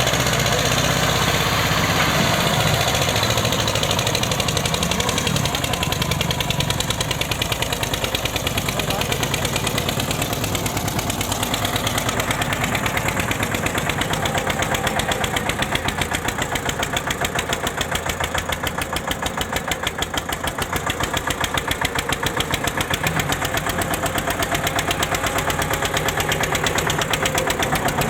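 Eicher 241 tractor's single-cylinder air-cooled diesel engine running with a steady, rapid thudding beat, which stands out more plainly from about twelve seconds in.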